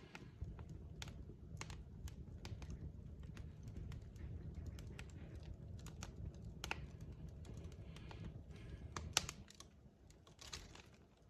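Logs burning in a fireplace, crackling: irregular sharp snaps and pops over a low, steady rumble of the flames, with the loudest pops about nine seconds in.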